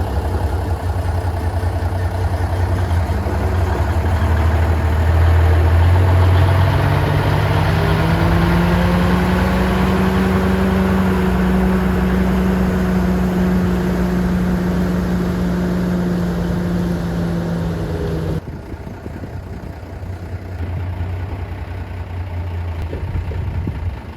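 1969 M818 military 6x6 truck's Cummins diesel engine running. About seven seconds in it speeds up and holds a steady higher speed, then drops back suddenly near the end.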